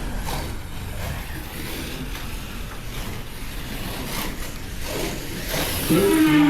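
Slot cars racing round the track: small electric motors whining and the cars clattering along the rails. A brief voice-like call comes near the end.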